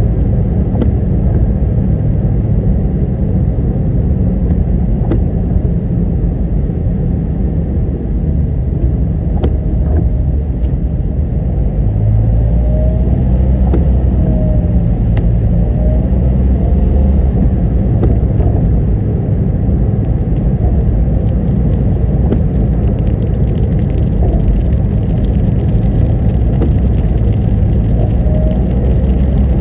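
Car driving along a road, with a steady low rumble of engine and road noise. Occasional faint ticks and a few brief faint squeaks are heard.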